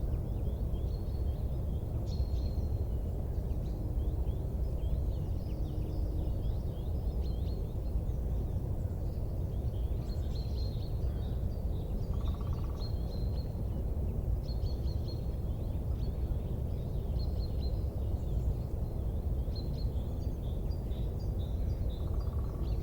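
Steady low rumbling noise with many short, high bird chirps over it, and a brief pulsed call twice, about halfway through and near the end.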